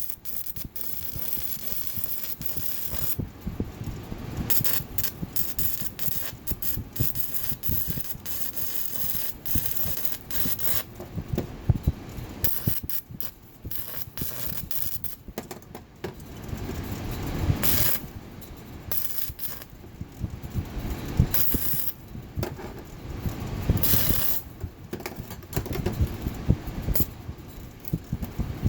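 Electric arc welding on a steel horseshoe: an arc crackling in runs of a few seconds, stopping and starting again with short breaks between the welds.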